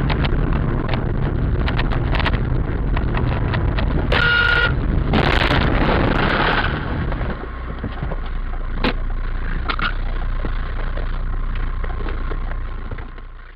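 Car road and engine noise recorded by a dashcam, with scattered clicks. A short horn blast sounds about four seconds in, followed by a louder noisy burst lasting about a second and a half.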